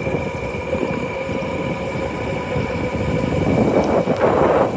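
Motorcycle engine running with a steady hum under a rush of wind noise on the microphone while riding; the rushing noise swells louder near the end.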